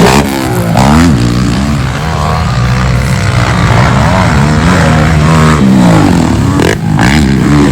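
Racing ATV engines revving hard, their pitch climbing and dropping over and over as the quads accelerate and back off around the track.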